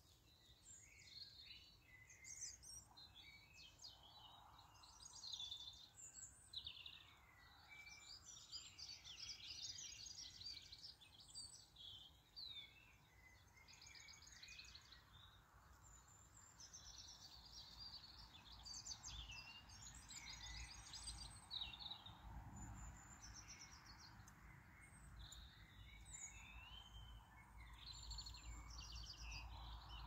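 Faint birdsong: several small birds singing and chirping in quick, varied phrases, over a low steady rumble.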